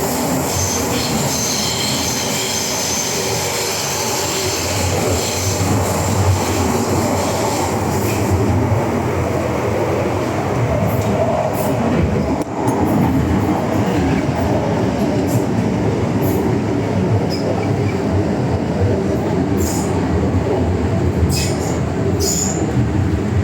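MTR M-train metro car running at speed, a steady rumble with high-pitched wheel squeal for the first several seconds, then short scattered squeaks and clicks from the wheels and car body.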